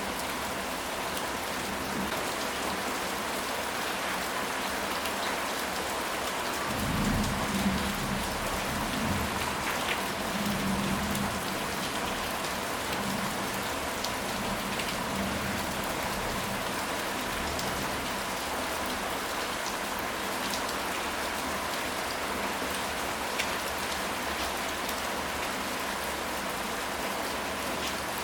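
Steady rain falling, an even dense patter. About seven seconds in, a low rumble of thunder rolls for several seconds and then fades back under the rain.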